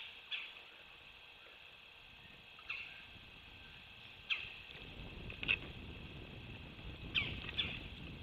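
Outdoor birdsong: short, sharp high call notes, singly or in quick pairs, every second or two. A low rumble swells underneath through the second half.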